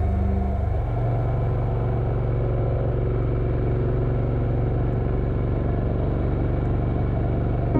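Motorcycle engine running on the move, its pitch dropping about a second in, then holding steady.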